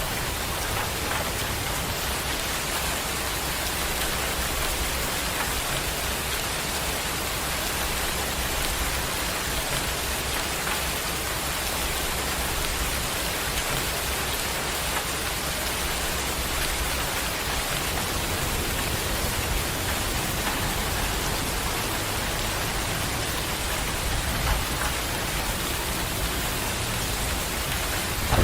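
Steady heavy rain pouring down in an even, unbroken hiss, with a low rumble underneath that grows stronger in the second half.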